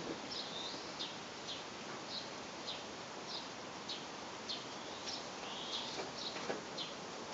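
A small bird chirping over and over: short, high chirps, about two a second, with a couple of longer warbled notes among them.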